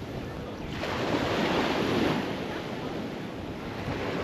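Ocean surf washing onto the beach: a wave swells and breaks about a second in, then eases off, with another starting to build near the end. Wind buffets the microphone.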